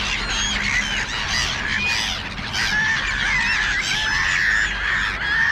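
A flock of black-headed gulls calling, many calls overlapping, with several longer drawn-out calls in the second half.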